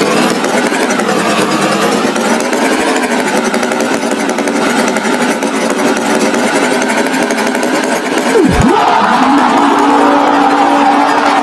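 A motor running loudly and steadily, in a rough rattling drone. About eight seconds in, a quick swoop dips sharply in pitch and comes back up. After that, the drone turns smoother, with a steady held tone.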